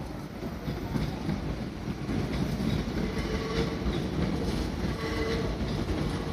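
Hakone Tozan Railway electric train, a 3000-series Allegra coupled with a 1000-series car, pulling out and running along a curve, its wheels clattering over the rails and points. The running noise grows louder about a second in, and brief high notes sound twice, a few seconds in and again near the end.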